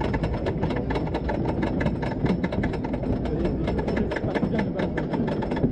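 Wooden roller coaster train running over its track, heard on board: a continuous low rumble with a dense, rapid clatter of clicks from the wheels and wooden structure.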